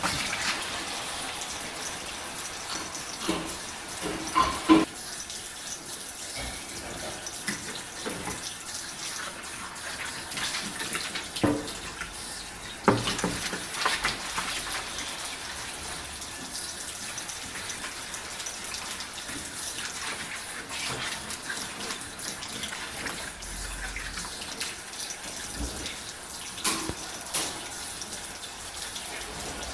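Tap water running steadily into a sink during hand dishwashing, with dishes clinking and knocking together several times, the loudest clinks about four seconds in and in the middle.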